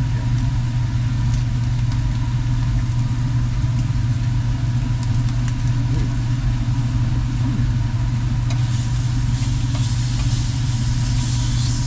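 A steady low mechanical drone, like a motor or engine running, with a faint steady whine above it.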